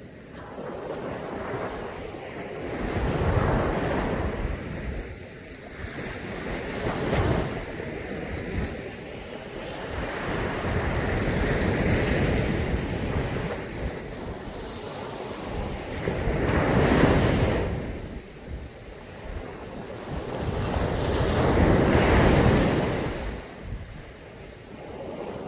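Caribbean sea waves breaking on a beach, surging and washing back in repeated swells about every four to five seconds, with wind rumbling on the microphone.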